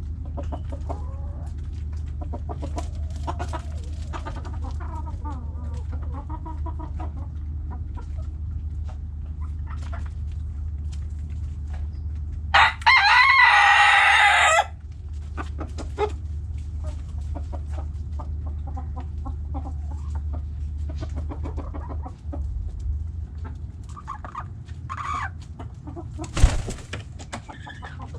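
Backyard hens clucking, with a rooster crowing once loudly for about two seconds midway. A steady low hum runs underneath, and a sharp knock sounds near the end.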